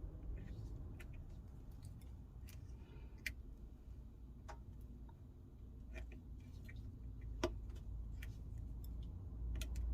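Scattered small clicks and taps of flex-cable connectors being pressed onto an iPhone 12 logic board, with faint handling noise; the sharpest click comes about seven and a half seconds in.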